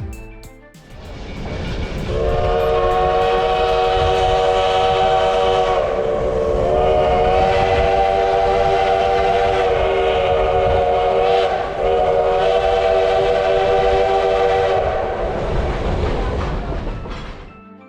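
Steam locomotive chime whistle on the 1880 Train blowing one long chord blast for about thirteen seconds, starting about two seconds in and wavering twice, over the rumble of the moving train, which fades near the end.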